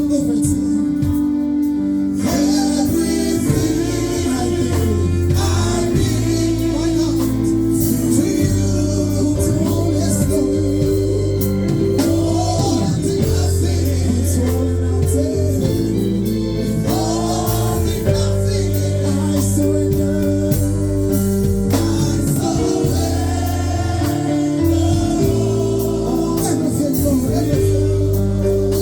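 Live gospel worship music: a band with a steady bass and sustained keyboard chords, with voices singing over it.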